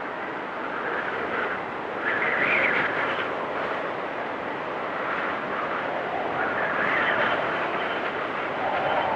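Storm wind blowing and whistling in gusts, its pitch rising and falling as each gust swells and fades.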